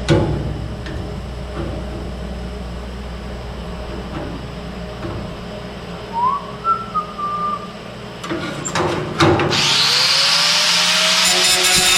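Power tool working sheet metal: a steady low hum, a few sharp clicks, then about three-quarters of the way in a motor spins up with a rising whine into loud, hissing cutting noise.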